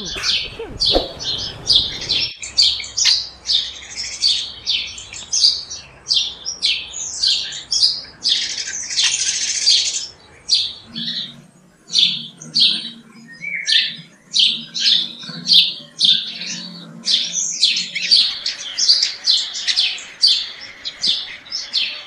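Small birds chirping in a rapid, continuous string of short high chirps, a few a second, with a denser burst of chatter about nine seconds in.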